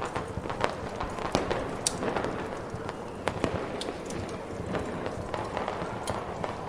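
Fireworks crackling and popping in an irregular scatter of sharp cracks over a steady rushing noise bed.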